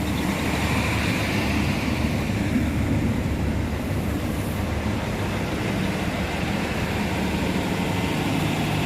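Northern Ireland Railways Class 3000 diesel multiple unit 3022 running through the station, a loud steady diesel engine and wheel-on-rail rumble.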